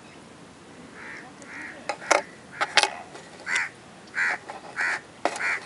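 A bird calling repeatedly: about seven short calls, roughly one every half second to second, starting about a second in. A few sharp clicks, the loudest sounds, come between the calls.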